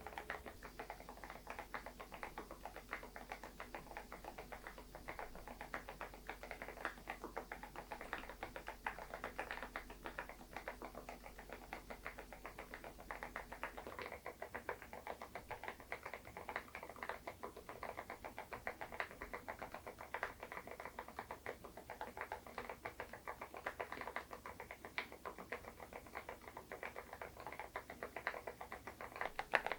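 Continuous typing on an SPM PL108W full-size keyboard with lubricated Moksae low-noise switches: a steady, dense stream of keystrokes.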